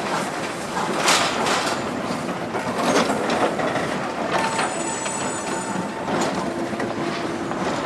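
Steam-hauled train running past, with a continuous rush of noise and irregular clattering over the rail joints. A brief high squeal, likely wheel flange or brake squeal, comes a little over halfway through.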